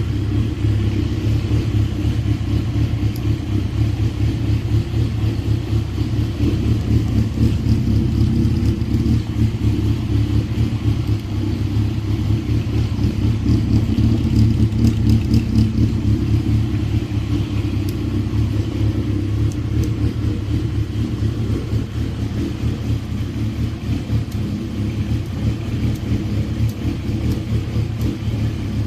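Honda CBX550F air-cooled inline-four motorcycle engine, fitted with an aftermarket exhaust, running steadily at idle just after being started.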